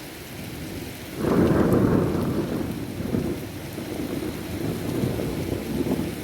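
Heavy rain falling steadily, with thunder breaking in suddenly about a second in and rolling on as a low, uneven rumble.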